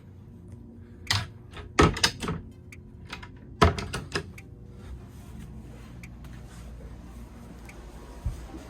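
Sharp clicks and knocks of a cabinet door and its latch being handled: a cluster of clicks in the first couple of seconds and another pair about a second and a half later. After that only a steady low hum remains.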